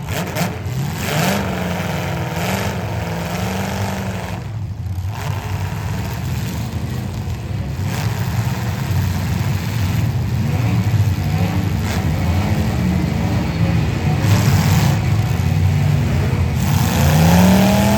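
Several demolition derby cars' engines running hard, revving up and down over one another, with a few sharp knocks scattered through.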